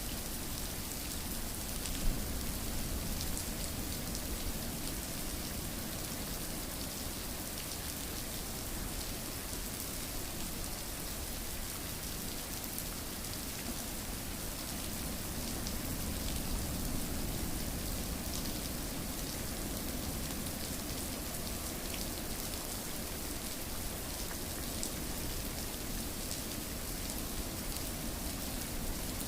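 Steady rain falling on a surface, an even hiss with scattered drop ticks. A single sharper tick stands out about two seconds in.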